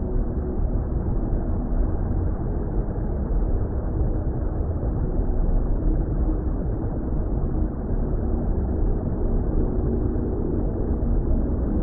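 Steady, deep underwater-style water rumble, a low muffled wash of noise with faint sustained drone tones in it, from a designed relaxation ambience track.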